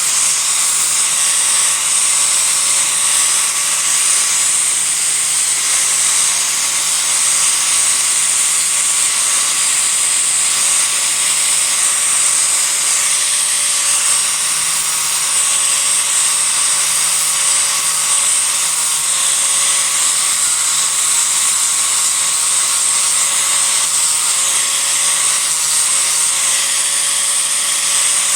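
Disc grinder running steadily as it roughs out a block of Japanese cedar: a loud, even grinding hiss over a motor whine that holds one pitch throughout.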